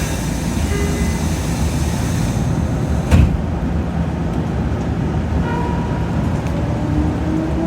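Shin-Keisei 8800 series electric train running with a steady rumble and a single sharp knock about three seconds in. From about five and a half seconds, the whine of its Mitsubishi GTO-VVVF inverter begins to rise slowly in pitch as the train picks up speed.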